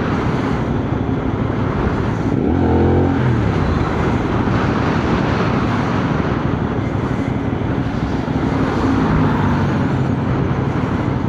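CFMoto 450NK motorcycle being ridden on the road: steady engine running and wind rush. A brief pitched tone sounds about two and a half seconds in.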